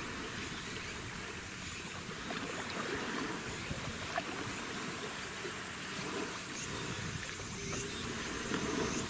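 Steady wash of water and waves, with the low rumble of a passing patrol boat.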